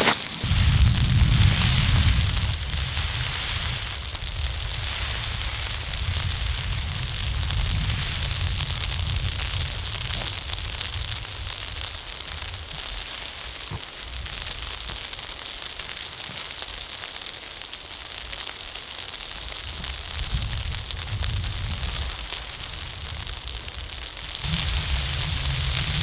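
Wood fire burning and crackling, with a low rumble that is strongest in the first couple of seconds and again near the end.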